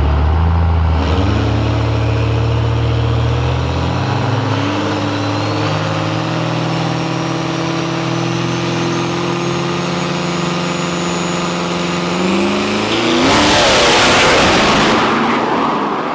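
Drag-racing engines held at high revs on the line, stepping up in pitch and holding, with a slowly rising high whine. About 13 seconds in they launch at full throttle, a loud blast that lasts a couple of seconds before fading.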